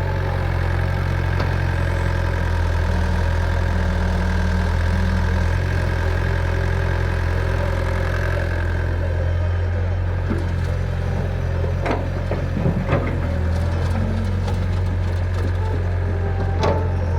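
Diesel tractor engine running steadily with an even low drone. A few short knocks or clatters are heard about twelve to thirteen seconds in and again near the end.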